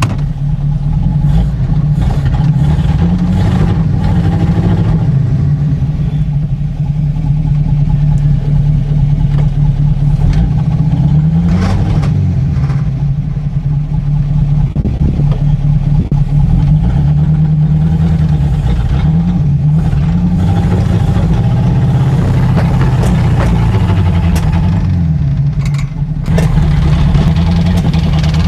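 1941 Buick's straight-eight engine running, its speed rising and falling repeatedly as it is worked through low gear.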